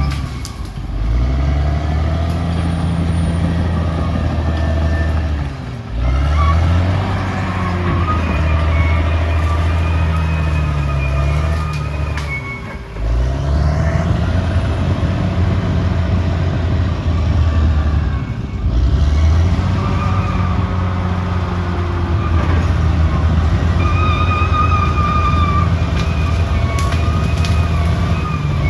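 Crawler bulldozer's diesel engine running hard, its pitch sagging and picking up again a few times as the load changes. Wavering high squeals run above it.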